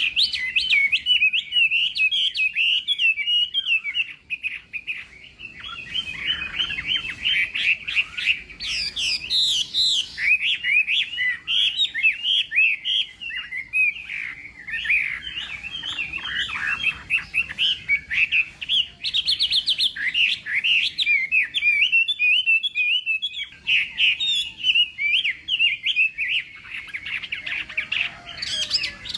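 Chinese hwamei singing a long, varied song of rapid whistled phrases and trills, broken by a few short pauses.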